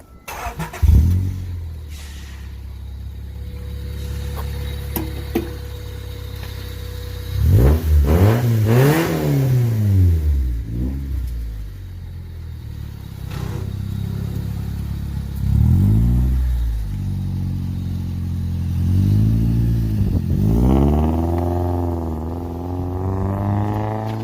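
Car engine starting up and idling through a newly fitted Magnaflow axle-back muffler, revved several times: the pitch rises and falls about 7 seconds in, again around 16 seconds, and twice more near the end.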